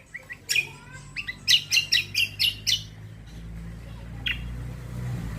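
Cucak kombo songbird giving a quick run of sharp, high chirping notes, about ten in under three seconds, then one more call a little later. Underneath, a low steady hum builds through the second half.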